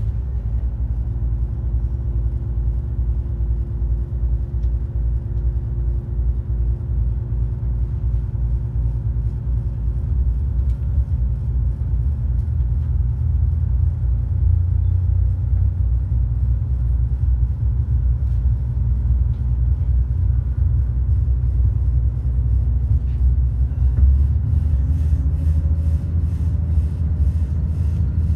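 Steady low rumble of a Budd RDC diesel railcar running, with a faint steady hum above it; a faint regular ticking joins near the end.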